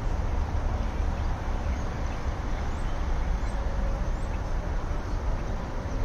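Birds calling faintly and sporadically, in short scattered notes, over a steady low rumble.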